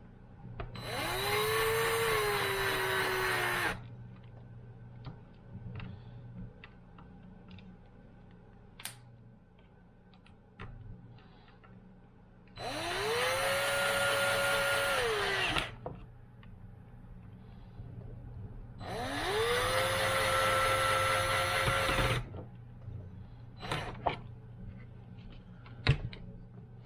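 Power drill driving three screws, one after another: three runs of a few seconds each, every one a whine that rises as the motor spins up and then holds. The first run drops in pitch near its end as the screw seats. Light clicks and knocks from handling the parts come between the runs.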